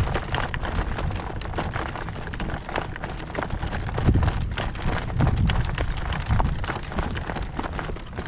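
A harnessed horse's hooves clopping at a trot, with gusts of wind buffeting the microphone in low swells.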